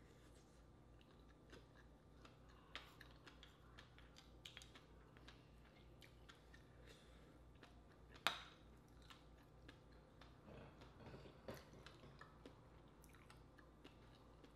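Faint, close-miked chewing and wet mouth clicks of a person eating a large baked oyster. About eight seconds in, a single sharp click as the empty oyster shell is set down on the wooden board.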